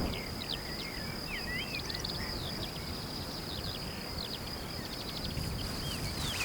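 Woodland ambience: songbirds chirping in quick, gliding notes over a steady high-pitched insect drone, with a low background rush.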